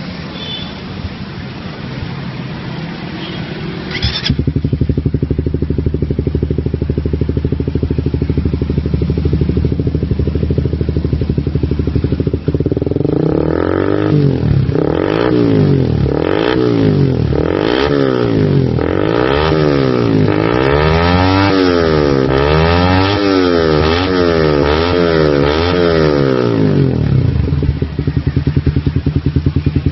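Suzuki GSX-R150/GSX-S150 single-cylinder engine, breathing through an aftermarket racing exhaust with a Black Devil header, starts about four seconds in and settles into a steady idle. Midway it is blipped repeatedly, about once a second, rising and falling in pitch, then drops back to idle near the end.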